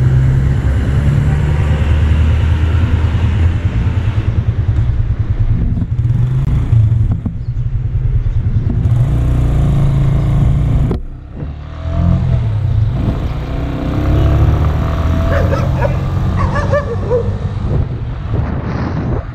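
Motorcycle engine running while riding, its pitch stepping up and down with the throttle. The sound drops out briefly about eleven seconds in, then the engine picks up again.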